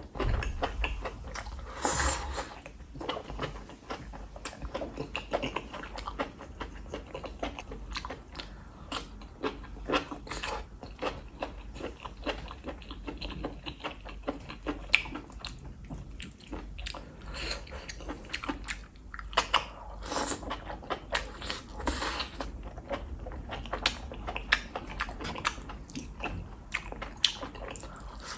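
A person chewing a mouthful of soft enoki and oyster mushrooms in sauce, with a steady run of wet clicking and smacking mouth sounds. There are louder bursts near the start and again around twenty seconds in.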